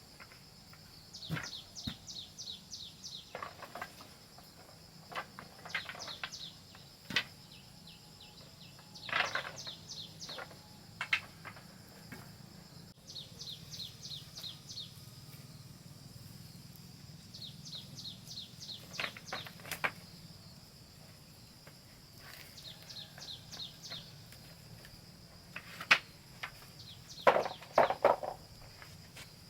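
Steady high insect drone with bird trills, quick runs of short falling chirps, repeating every few seconds. Scattered sharp knocks are heard throughout, the loudest cluster coming near the end.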